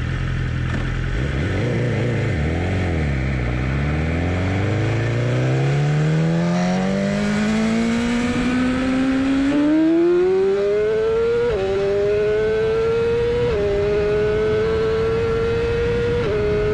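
BMW S1000RR's 999cc inline-four engine accelerating hard at full throttle. Its pitch wavers briefly, then climbs steadily and high. It drops sharply three times as the rider shifts up a gear, each time rising again more slowly.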